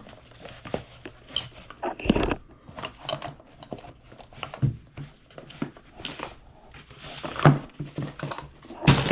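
Irregular clicks, knocks and scraping from hands working on a washing machine's pedestal and base, with a louder knock about two seconds in and again near the end.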